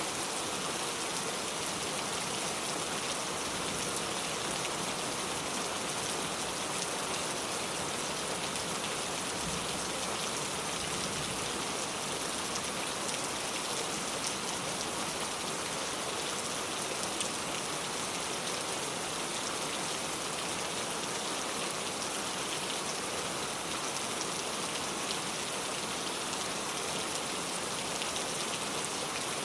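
Steady rain falling: an even hiss with the fine patter of individual drops.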